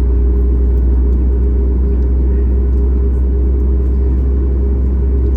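Steady cabin noise inside a Boeing 737 MAX 8: the deep rumble of its CFM LEAP-1B turbofan engines and the rush of air, holding level at a high power setting.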